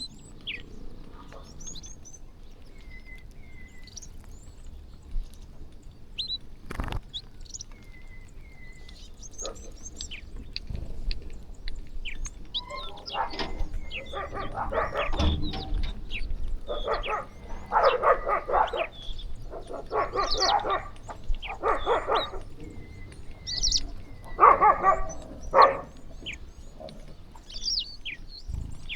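A flock of birds chirping and twittering while they feed. From about halfway through, a series of about six louder, harsh calls, each about a second long, stands out over the chirping, and there is a single sharp click about seven seconds in.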